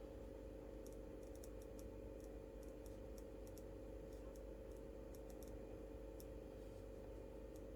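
Faint, irregular light clicks from quiet desk work, over a steady low hum.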